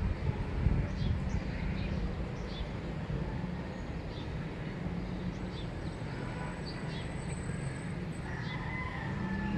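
Small birds chirping in short, quick, falling notes, about one or two a second, over a steady low rumble; near the end a faint thin high tone is held for a couple of seconds.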